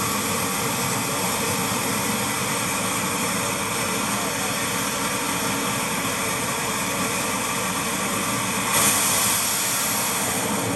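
Jet truck's jet engine running steadily, a loud rushing hiss with faint steady tones in it; the hiss rises briefly about nine seconds in.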